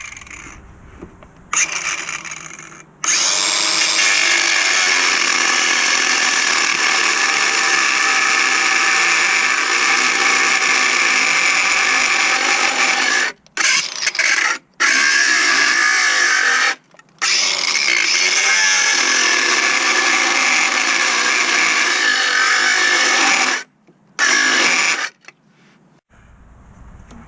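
Power tool motor running in long steady spells, with a few short stops midway, one brief final burst, then silence.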